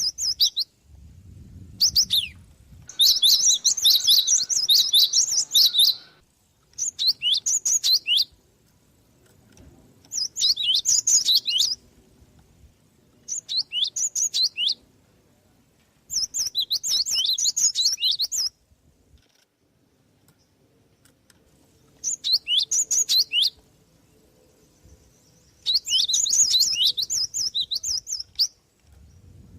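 Java sparrow (gelatik) singing in repeated bursts of quick, high, downward-sweeping chirps, each burst a second or two long with short pauses between.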